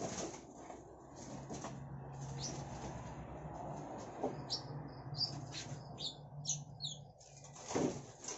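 Small wild-caught songbirds fluttering their wings in a box or cage, with a quick run of short high chirps in the middle. A low steady hum runs underneath.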